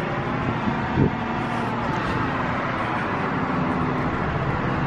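A motor vehicle's engine running steadily nearby.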